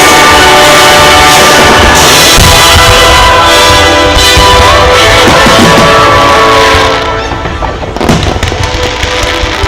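Loud show music over loudspeakers mixed with fireworks bursting and crackling. The music drops off about seven seconds in, and a sharp bang follows about a second later.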